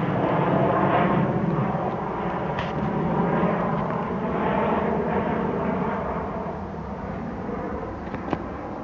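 Jet noise of a Boeing 737-700's two CFM56-7B turbofans as the airliner climbs away after takeoff, a broad rumble that slowly fades. A single sharp click near the end.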